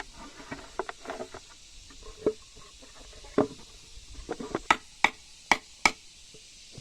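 Irregular knocks and taps of tools on wood, ending in a run of four sharper strikes, about two to three a second.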